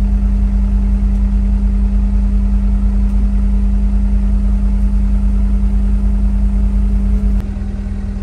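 Vehicle engine running at a steady speed, a loud constant drone with a low hum and a steady higher tone. About seven seconds in it cuts abruptly to a quieter, rougher engine sound.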